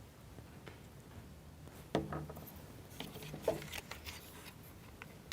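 Light clicks and knocks of plywood model-kit parts being handled and pressed together as the right exhaust goes onto its pins. The loudest knock comes about two seconds in, with a few more around three to three and a half seconds.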